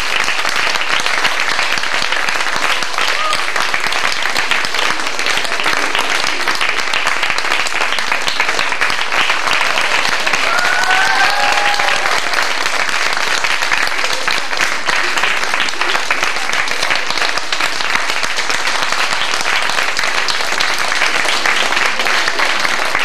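Audience applauding steadily and densely, with a brief call from someone in the crowd about ten seconds in.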